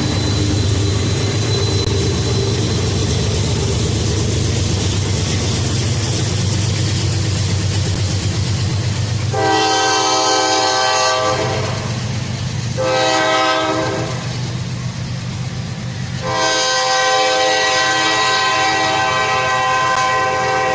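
A train rumbling steadily, then its locomotive horn sounds three times: a long blast, a short one, and a long one near the end.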